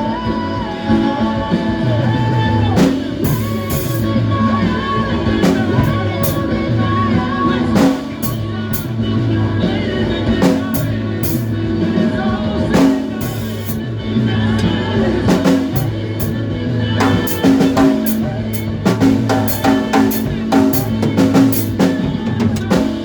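Live band rehearsal music with no words: drum kit hits over bass guitar notes and sustained pitched chords, playing steadily.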